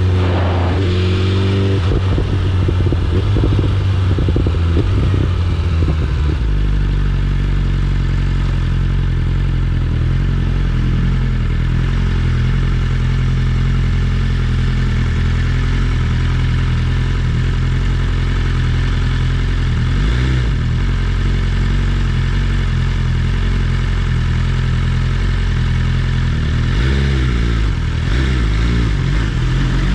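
BMW S1000RR inline-four engine running as the motorcycle rides along. Its note shifts over the first few seconds, then holds steady at a cruising pitch, with brief changes in pitch twice later on.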